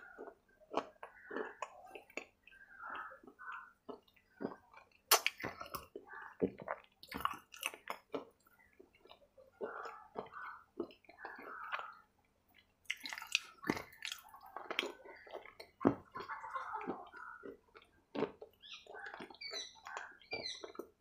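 A person chewing close to a lapel microphone, with wet smacking mouth sounds and a few sharp crunches about 5, 7 and 13 seconds in.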